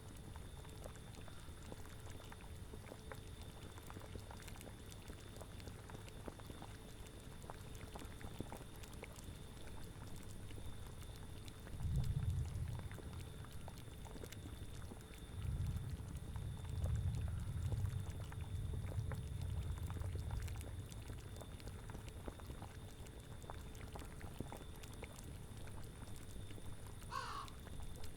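Cauldron boiling with a low, steady bubbling, under autumn wind that swells twice around the middle. Near the end comes one short animal call that slides up in pitch.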